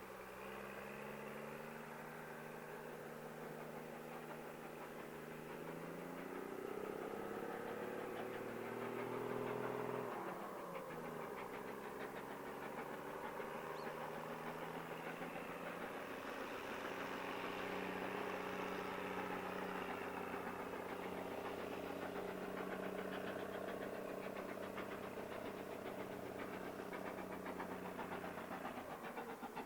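A motor engine running: its pitch climbs for a few seconds, drops sharply about ten seconds in, then settles to a steady run.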